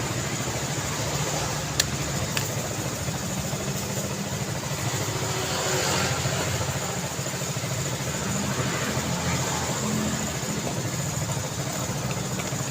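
Road traffic: a steady rumble of car engines and tyre noise, swelling as a vehicle passes about halfway through, with two sharp clicks about two seconds in.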